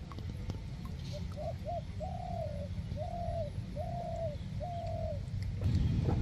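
A bird calling in a slow series of low, pitched notes: two short notes, then four longer drawn-out ones about a second apart, each rising slightly and then falling away.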